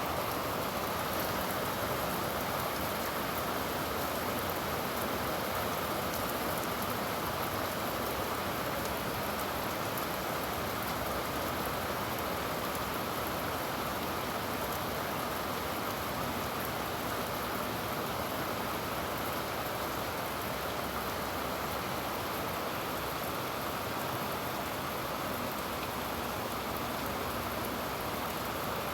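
Steady rain falling, an even hiss that holds level without a break.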